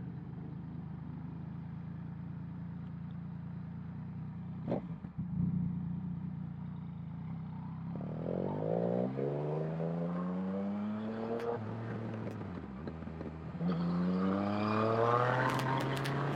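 Motorcycle engine running steadily, then accelerating from about halfway through, its pitch rising, dropping back at a gear change and rising again near the end. A few sharp clicks come near the end.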